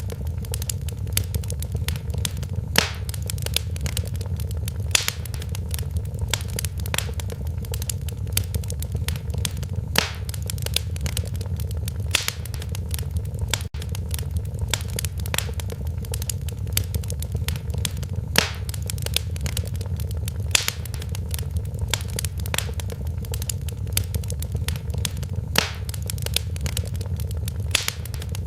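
Wood fire in a fireplace crackling, with frequent sharp pops and snaps at irregular moments over a steady low rumble of the burning fire.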